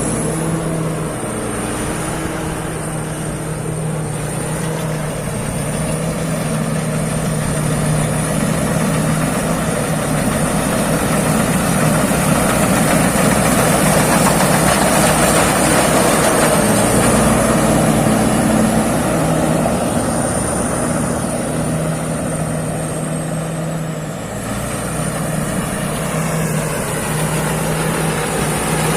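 Peng Charoen-built rice combine harvester running, a steady engine drone under a thin, high whine that wavers slightly. It grows louder for a while in the middle, then eases off.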